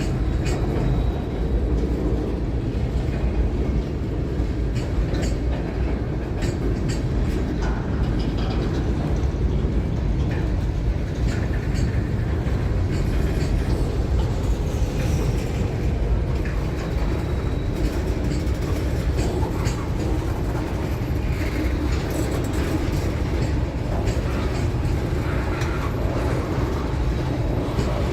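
Train rolling past on the track: a steady low rumble with irregular clicking and clatter from the wheels on the rails.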